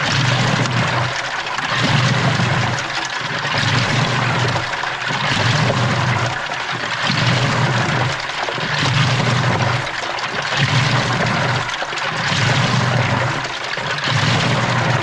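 Water sloshing and churning inside a washing machine drum, heard from within the drum, with a low hum that swells and fades about every two seconds as the drum turns during the wash.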